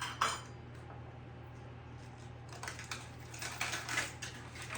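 Light clicks and clinks of baking things being handled, with a cluster of small knocks about three seconds in, over a steady low hum.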